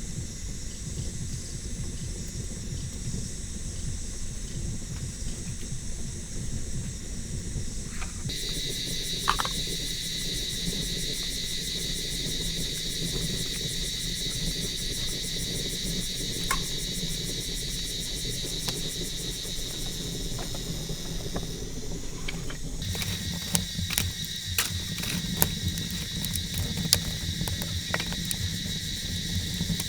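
Steady high trilling of insects such as crickets, with a low rumble of noise underneath. From about two thirds of the way in, a series of sharp clicks and knocks comes in over it.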